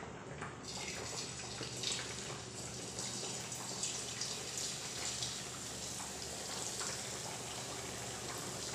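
Potato dough strands frying in hot oil in a kadhai: a steady sizzle with many small crackles, which comes up about half a second in as the dough is pressed into the oil.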